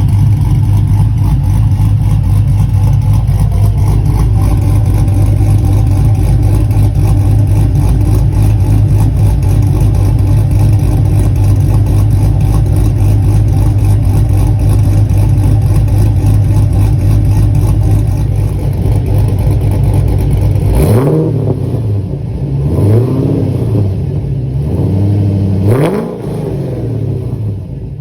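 Cammed Pontiac GTO's V8, with long-tube headers, 3-inch X-pipe and Flowmaster FX Bullet mufflers, idling steadily through the exhaust, then revved several times in quick succession near the end.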